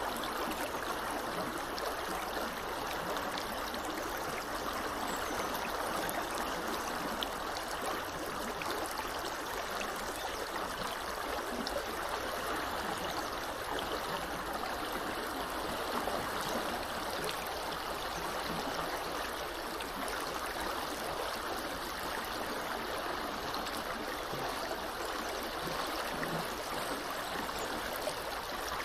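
Small river flowing steadily: an even, unbroken rush of water.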